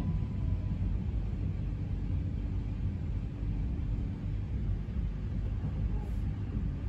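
Low rumble of an electric passenger train heard from inside the carriage as it slows into a station and comes to a halt. A faint steady hum joins about a second and a half in.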